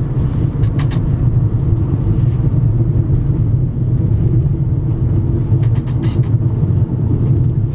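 Car driving, a steady low engine and road rumble heard from inside the cabin.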